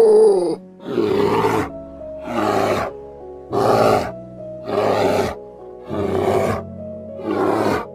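Brown bear giving a run of loud, rough roaring calls, about one every second and a bit, over steady background music.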